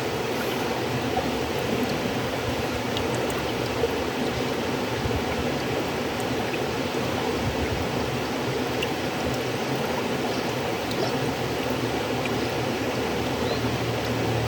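River water flowing, a steady even rush with faint small splashes here and there.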